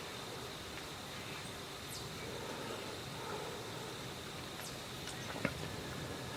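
Woodland ambience: a steady hiss with a faint thin high tone running through it, a few faint ticks, and one sharp snap about five and a half seconds in.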